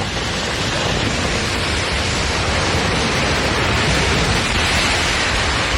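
Loud, steady rushing noise, even and without any tones or rhythm, swelling slightly in the first second.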